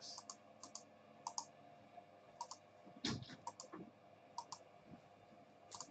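Faint, scattered clicks of a computer mouse, several of them in quick pairs, as a randomizer is set up on screen.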